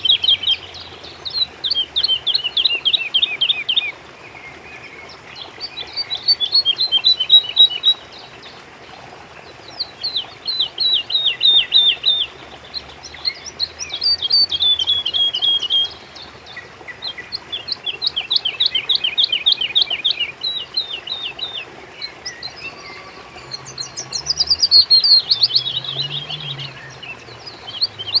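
A songbird singing repeated phrases of rapid, downward-sweeping high notes. Each phrase lasts two to four seconds, with a short pause before the next, over a faint steady background hiss.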